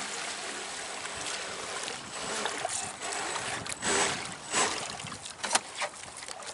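Water rushing and splashing around the electric RC boat, with a few sharp splashes and knocks between about four and five and a half seconds in.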